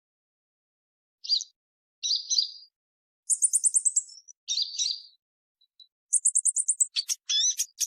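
Purple-throated sunbird calling: short, sharp, high chips. A fast, very high trill comes about three seconds in and again about six seconds in, and a quick run of sharp notes follows near the end.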